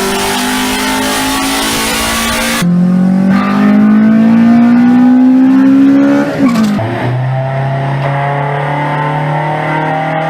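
Honda VTEC engine and exhaust at high revs. The engine holds a steady high note under heavy rushing noise. It then cuts to a clearer note that climbs steadily in pitch as the car accelerates. About six seconds in, the pitch drops at an upshift and the engine pulls again in the next gear.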